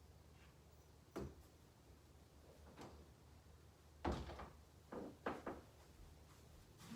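Quiet room tone broken by a few short knocks and thumps: one about a second in, then a louder cluster of three or four between about four and five and a half seconds in.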